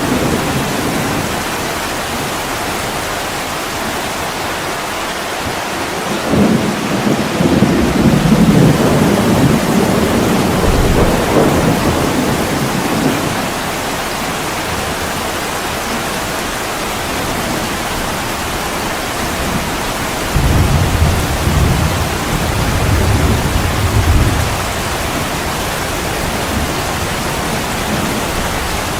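Heavy rain falling steadily on a window, with two low rolls of thunder: one about six seconds in that rumbles for several seconds, and a shorter one about twenty seconds in.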